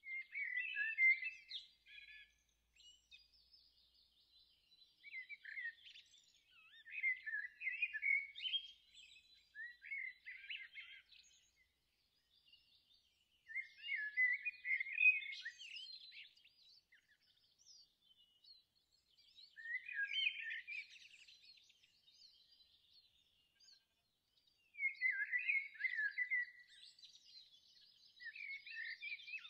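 Songbirds singing: short bursts of quick chirps and warbles every few seconds, with brief pauses between them.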